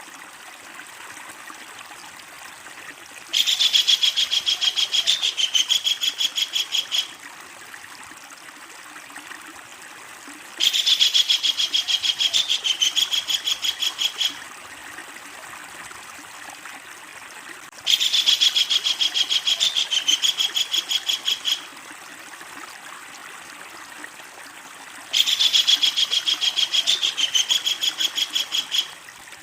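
Kingfisher giving its long, loud cackling call: four bouts of fast, evenly repeated high notes, each lasting about four seconds with a brief break partway through, separated by pauses of a few seconds. A faint steady hiss lies underneath.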